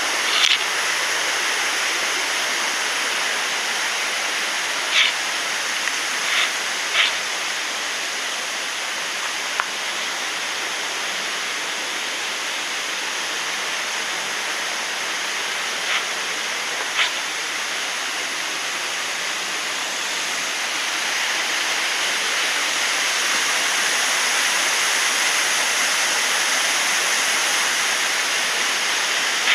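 Waterfall pouring steadily, a continuous rushing of falling water, with a few brief sharp ticks in the first part and a slight rise in level later on.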